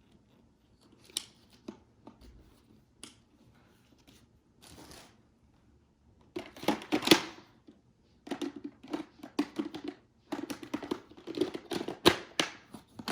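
Plastic parts of a cordless stick vacuum being handled and fitted together: scattered clicks and rattles, growing busier about halfway through as a part is worked into place.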